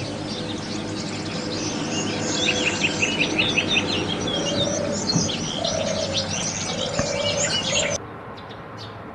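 Small songbirds chirping in quick, overlapping calls, with a few lower held notes underneath. It cuts off abruptly about eight seconds in, leaving a quieter background.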